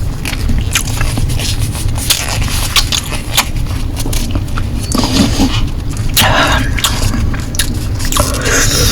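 Close-miked eating of Korean noodles: many sharp wet mouth clicks and smacks from chewing, with three longer slurping stretches about five, six and eight seconds in, over a steady low rumble.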